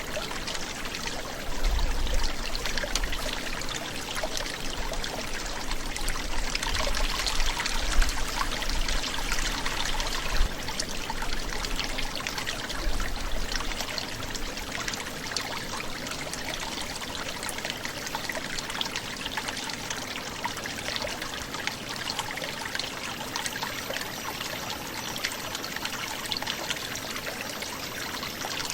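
Forest brook gurgling and trickling over its bed in a steady rush of water. A low rumble sits under it through the first half.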